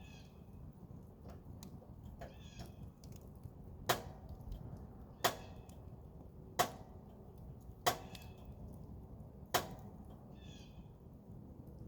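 Campfire burning with a low steady rush, broken by five sharp cracks about a second and a half apart. A few short high animal calls sound now and then.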